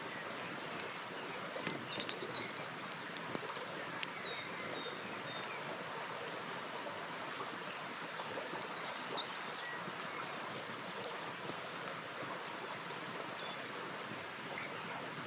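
River water flowing steadily, with a campfire crackling over it in a few sharp pops, the clearest about 2, 4 and 9 seconds in. Faint short bird chirps come and go.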